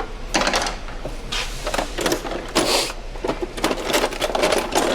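Metal hand tools clinking and rattling as they are handled: a quick, irregular run of clicks and knocks.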